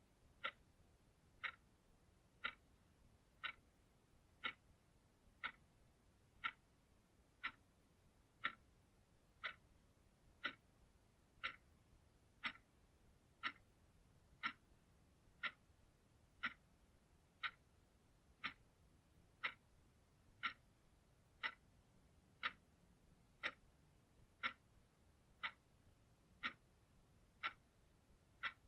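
Analog clock ticking steadily, one short crisp tick each second.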